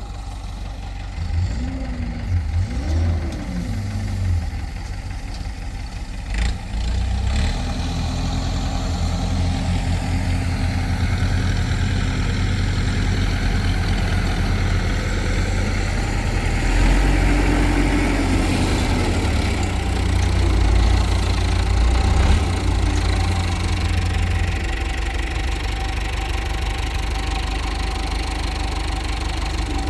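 Combine harvester engine running, its note rising briefly a few times early on, then running harder and louder for most of the stretch before easing back near the end.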